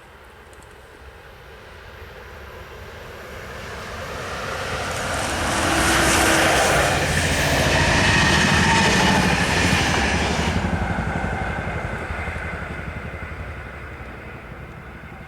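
A train passing by on the Tábor–Prague line. It approaches with rising noise, is loudest for a few seconds about halfway through with the wheels clattering rapidly, then fades away.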